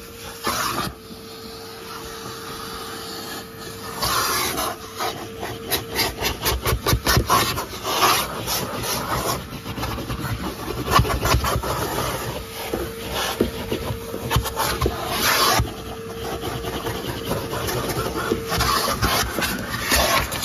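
A 1997 Numatic Henry vacuum cleaner running with a steady whine, its nozzle rubbing and scraping over the car in repeated strokes, quick and closely spaced at times.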